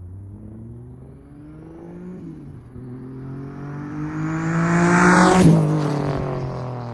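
Turbocharged Honda K24 four-cylinder engine in a BMW E36 revving up, its pitch climbing over several seconds to its loudest about five and a half seconds in, then easing off.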